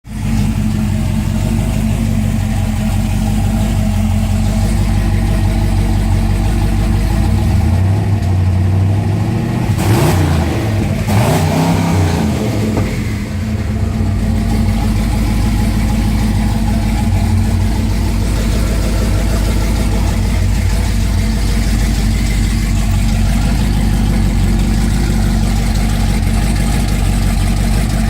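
Twin-turbocharged truck engine, not yet tuned, running at a steady idle on its second start-up. It is revved twice about ten seconds in, rising and falling back each time, then settles back to idle.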